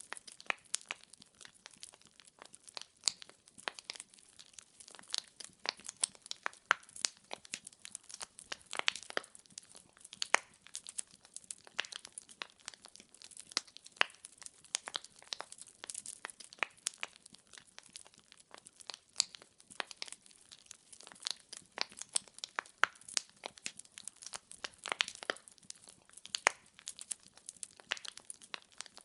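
Wood fire crackling in a fireplace: a steady run of irregular sharp pops and snaps from the burning logs over a faint hiss.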